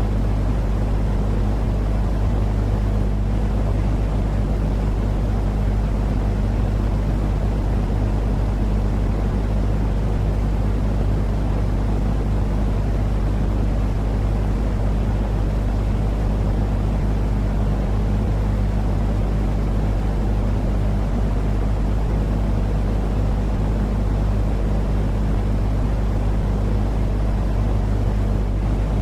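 Continuous sleep-aid white noise: an even, deep rumbling hiss with a steady low hum underneath, never changing.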